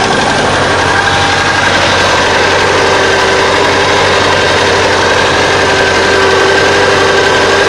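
DT-75 crawler tractor's engine running steadily at idle, a constant even drone with no change in speed.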